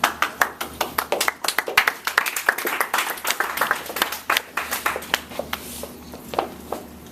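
A group of people clapping. It starts abruptly, is dense for about five seconds, then thins to a few scattered claps.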